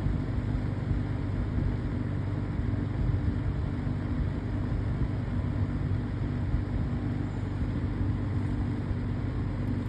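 20-inch Haier box fan running steadily on its low speed setting: an even wash of air noise over a steady low motor hum.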